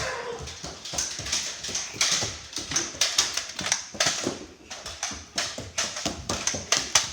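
A run of irregular sharp clicks and knocks, several a second, with rustling between them.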